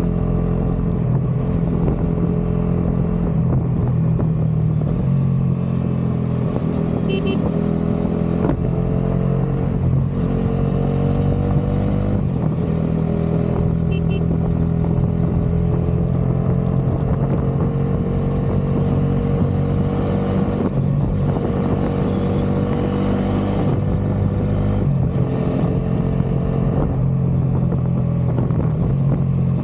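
Bajaj Dominar 400's single-cylinder engine and exhaust running steadily under way, the note rising slowly and dipping a few times as the revs change.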